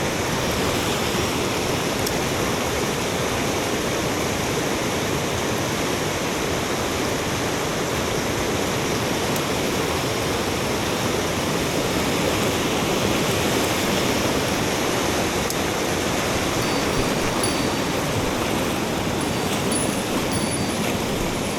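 Mountain stream water rushing, a steady, loud and unbroken wash of sound.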